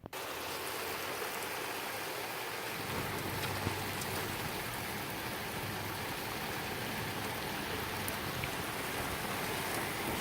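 Heavy rain falling steadily, a dense even hiss that starts suddenly, with a few faint sharp ticks.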